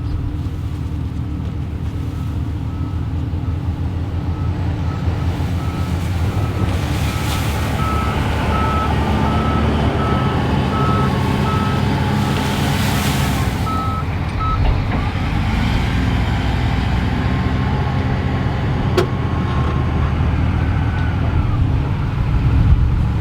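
Truck engine running steadily while a backup alarm beeps at an even pace, the beeping stopping about two-thirds of the way through. Two short hissing swells come in between.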